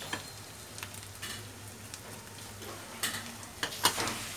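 Onions, spices and mustard paste sizzling steadily in hot mustard oil in a frying pan, with a few sharp clicks near the end.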